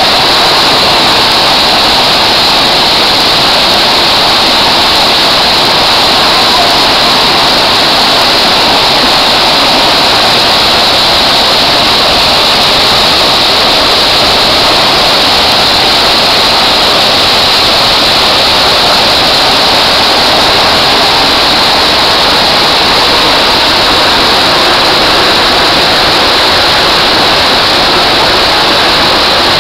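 Waterfall pouring, a loud, steady rush of water that does not change.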